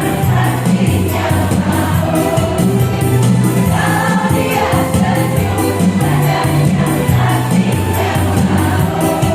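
Women's choir singing over an instrumental accompaniment, with a low bass line that changes note every second or so and a steady beat.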